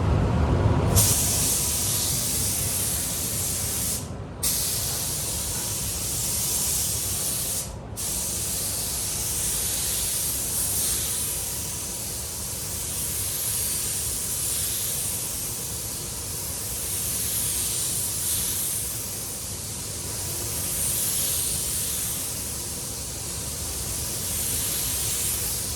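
Paint spray gun hissing steadily as it lays on clear coat lacquer, starting about a second in, with the trigger released briefly twice, around 4 and 8 seconds.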